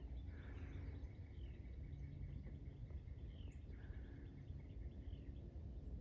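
Faint birds calling in woodland: short descending chirps about once a second, with a faint steady high note through the first half, over a low steady background rumble.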